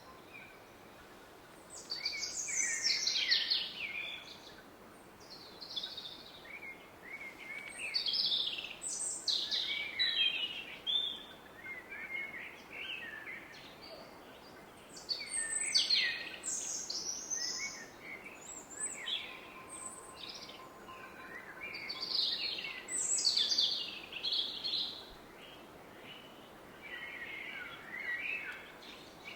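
Woodland songbirds singing short, varied phrases every few seconds over the steady roar of a distant river.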